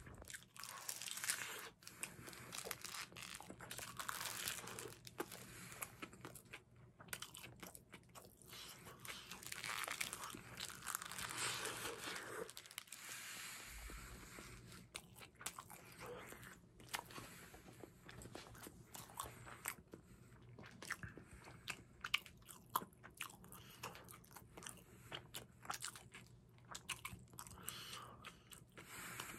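Close-miked eating of a tuna-mayonnaise triangle kimbap: crunchy bites into the seaweed-wrapped rice ball, then chewing with many small wet mouth clicks. The first half is a denser crackle; after about thirteen seconds it thins to scattered clicks.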